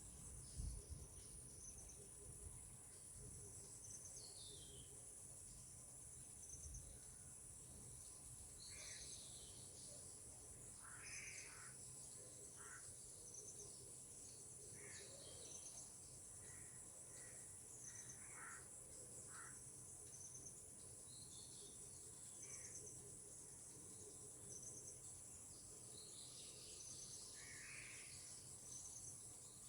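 Faint tropical insect chorus: a steady high-pitched trilling, with a short high chirp repeating about every second and a half. Scattered short bird calls come and go through the middle and again near the end, and a brief low thump sounds just under a second in.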